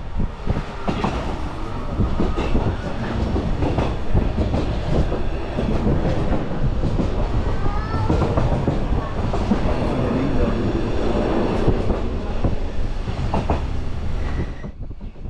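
Passenger train running along the track, wheels clattering steadily over the rails, with a brief rising squeal about halfway through. The sound changes abruptly near the end.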